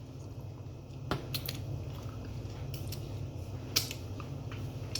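A person chewing food with wet mouth clicks and smacks scattered through, the sharpest about three quarters of the way in, over a steady low hum.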